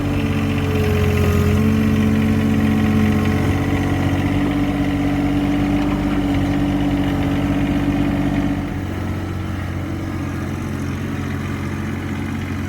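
Engine of a John Deere 2025R compact tractor, a three-cylinder diesel, running steadily. It gets slightly quieter about eight and a half seconds in.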